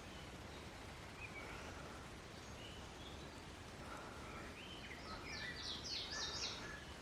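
Wild birds calling with faint chirps over a steady background hush, then a quick run of short high notes from about five seconds in, the loudest part.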